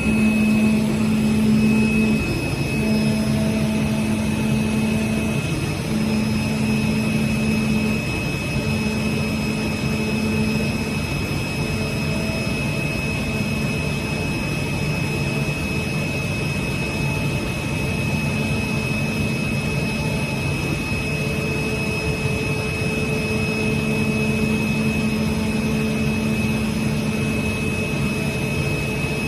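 CNC oscillating-knife cutting machine running while it cuts paper: a steady machine whir with a constant high whine, and a lower motor hum that starts and stops every second or two as the cutting head moves.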